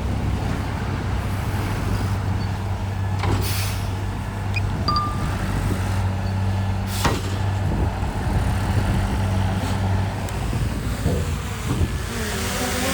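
Heavy construction machine's diesel engine running steadily with a low, even hum, broken by two sharp knocks, one about a third of the way in and one about halfway.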